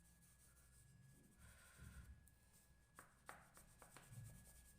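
Faint scratching of an oil pastel rubbed back and forth on paper, with a couple of light ticks about three seconds in.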